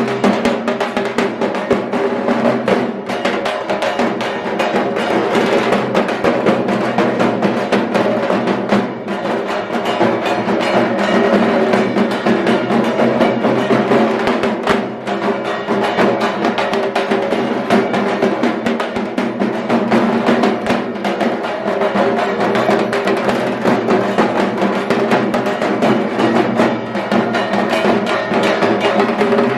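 Loud, fast, continuous drumming with music, the strokes coming densely without a break.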